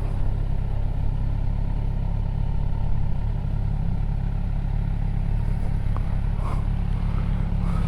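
Motorcycle engine running steadily at low road speed, a constant low rumble.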